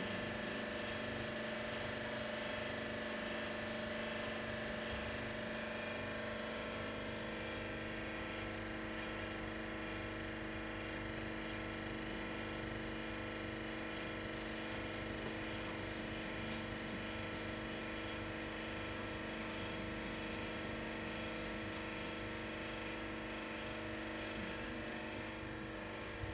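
Steady motor hum with several constant tones over an even hiss, from air-conditioner cleaning equipment running.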